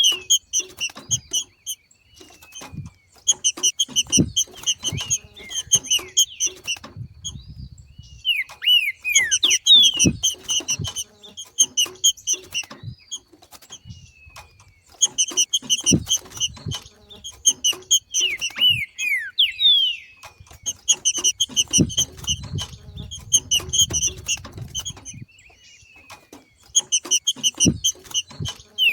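Green-winged saltator (trinca-ferro) giving its 'macheado' call, the call of a bird in breeding condition. It comes in repeated phrases every few seconds: each is a fast run of paired notes, often ending in a few downward-sliding whistles. Short knocks and rustles sound between the phrases.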